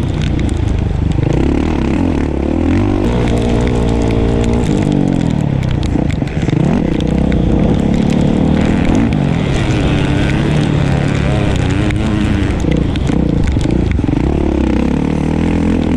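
Dirt bike engine being ridden hard, revving up and dropping back again and again as the rider throttles and shifts.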